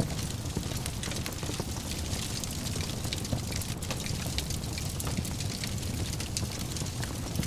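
Wood fire burning in a fireplace: frequent small, sharp crackles and pops at irregular intervals over a steady low rumble of the flames.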